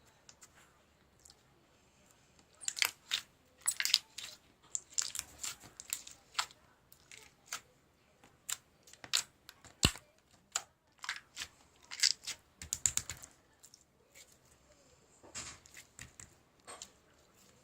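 Irregular clicks, taps and short crinkly rustles, as of small objects being handled, in bunches with quiet gaps between.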